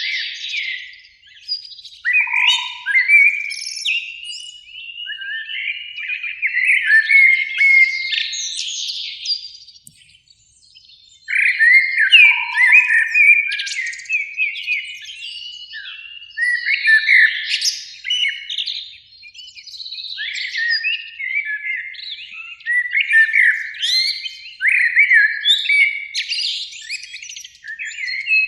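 Eurasian blackbirds singing, with song phrases following one another and a brief pause about ten seconds in.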